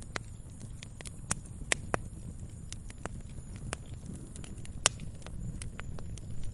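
Wood fire crackling in a fireplace: irregular sharp pops and snaps, a few each second, over a low steady rumble of the flames, with one louder snap about five seconds in.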